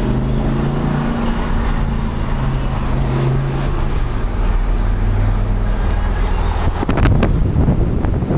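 Lamborghini Gallardo's V10 engine running at fairly steady revs on the move, heard from inside the car. From about seven seconds in, wind buffets the microphone.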